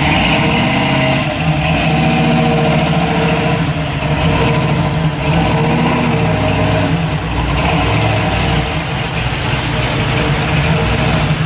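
1970 Chevrolet Nova SS's V8 engine running as the car creeps along, its exhaust note rising and falling a little in pitch with light throttle.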